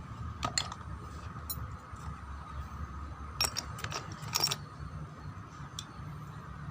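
Metal engine parts and tools clinking as they are handled during a brush-cutter teardown: a couple of sharp clinks about half a second in and a quick cluster of clinks around four seconds in, over a steady faint hum.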